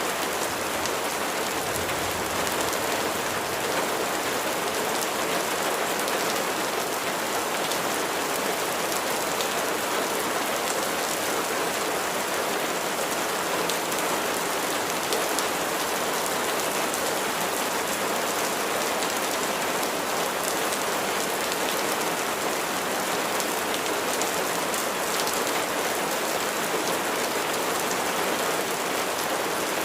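Steady rain falling and pattering on surfaces: an even hiss scattered with countless fine drop ticks, unchanging throughout.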